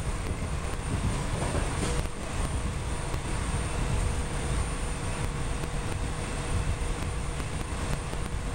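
PATCO rapid-transit train running along the track, heard from inside the lead car: a steady low rumble of wheels on rail, with a faint steady tone above it.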